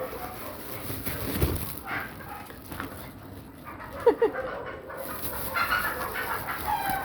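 Animal calls, like chickens clucking, with two short falling cries about four seconds in.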